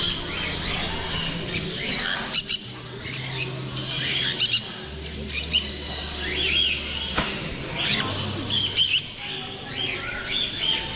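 Caged small parrots, sun conures among them, chirping and squawking, many short sharp calls overlapping throughout.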